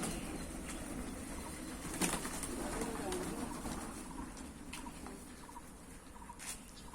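Birds giving low, soft calls a few seconds in, with a sharp click about two seconds in and another near the end.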